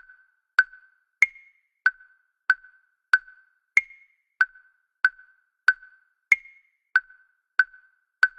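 A steady, metronome-like electronic ticking, a short wood-block-like tap about one and a half times a second, with every fourth tap higher in pitch. It stops near the end.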